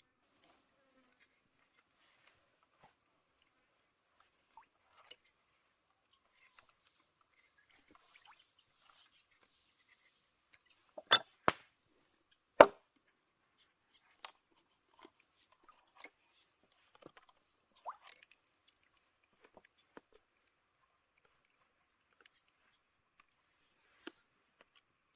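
Scattered light taps and knocks, the loudest three sharp knocks coming close together about halfway through. Under them runs a steady high-pitched insect drone.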